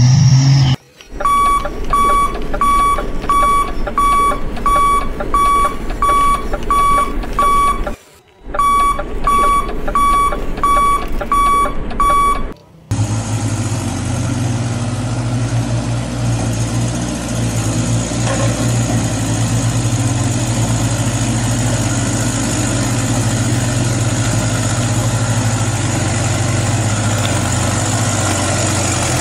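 Electronic reversing alarm from an RC dump truck's sound module, beeping steadily about twice a second, with two brief dropouts. About 13 s in it gives way to the module's simulated truck diesel idling steadily.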